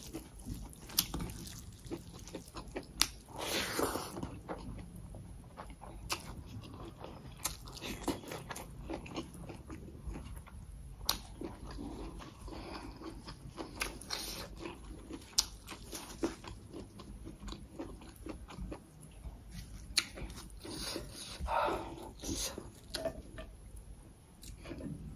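Close-up chewing and mouth sounds of someone eating rice and chicken curry by hand, with many short sharp clicks scattered throughout and a couple of louder, longer swells of noise.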